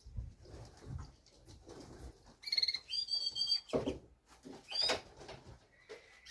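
Birds calling at a pigeon loft: soft knocks and rustling, then a run of short high chirps and whistles about halfway through, including one sweeping call.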